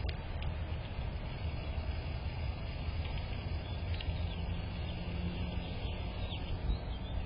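Outdoor ambience: a steady low rumble, with a few faint, short bird chirps scattered through it.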